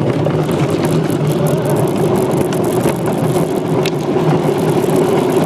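Mini bike riding fast down a hill: a loud, steady rush with many small rattling clicks from the bike.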